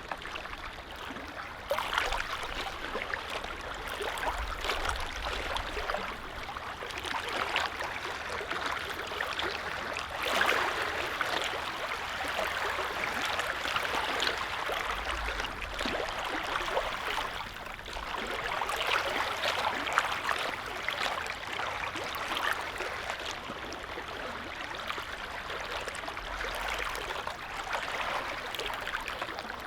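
Small lake waves lapping and splashing in a continuous, irregular wash of water.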